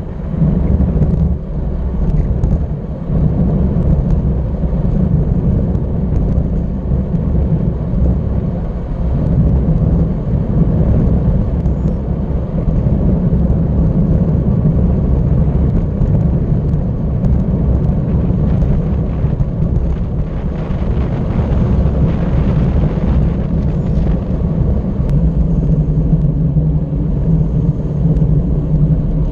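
Wind buffeting the microphone of a camera riding along on a moving bicycle, a loud, steady, low rumble.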